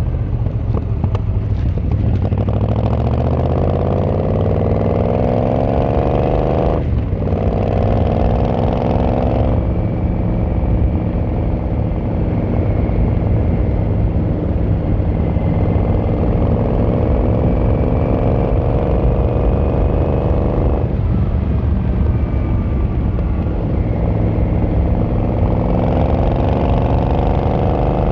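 Yamaha XVZ1300 Royal Star's V4 engine and exhaust under way, pulling through the gears. The pitch climbs steadily in each gear and drops briefly at the gear changes, about seven seconds in, again a couple of seconds later, and once more around twenty seconds in. Near the end it is rising again under acceleration.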